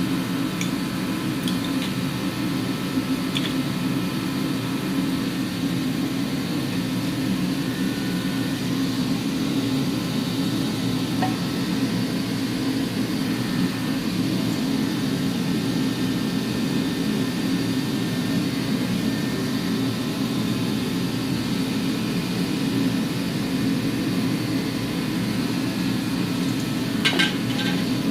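Steady low machine hum, unchanging throughout, with a few faint light clicks and a short cluster of sharper clicks near the end.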